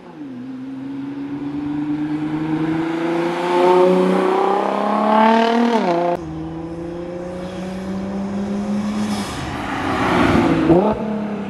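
Nissan GT-R's twin-turbo V6 driving by under acceleration, its engine pitch climbing for several seconds and then dropping. An abrupt cut about six seconds in leads to a second pass, whose pitch climbs and then falls sharply near the end.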